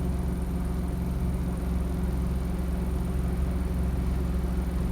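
Scania N230UD double-decker bus's diesel engine running steadily, heard from on board: a constant low drone with no change in engine speed.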